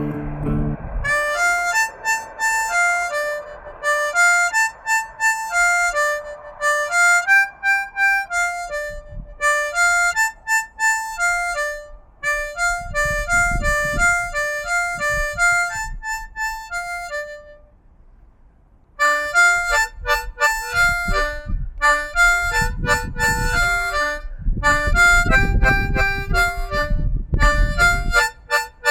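Harmonica playing a melody, its notes stepping up and down one after another, with a short break in the middle before the tune picks up again.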